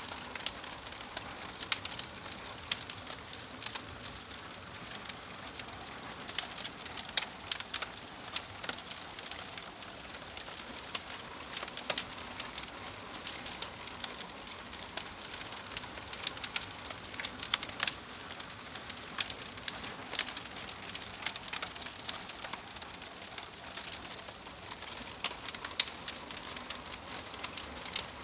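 Wood fire crackling: a steady soft hiss with sharp, irregular pops and snaps, several a second.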